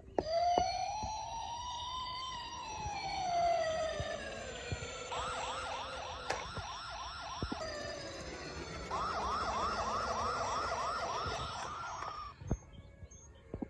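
Toy police car's electronic siren. It starts with one slow rising-and-falling wail, switches to a fast yelp of about four short glides a second, wails slowly again, then yelps fast again before cutting off about twelve seconds in.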